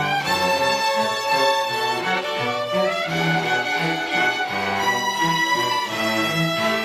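A school string orchestra playing live: violins carry held melody notes over a repeating pattern of low notes from the cellos and lower strings.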